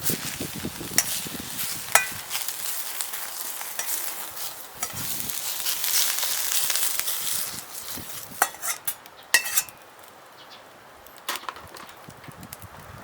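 Food sizzling as it is stir-fried in a Chinese wok, with sharp metal clinks of the spatula against the pan, a couple of them ringing briefly. The sizzle dies down after about eight seconds, leaving only a few scattered clinks.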